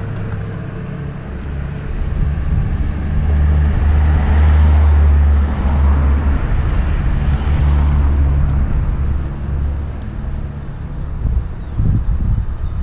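A motor vehicle passing on the road, swelling to its loudest about four to five seconds in and then fading, over a steady low wind rumble on the helmet-mounted camera microphone while cycling.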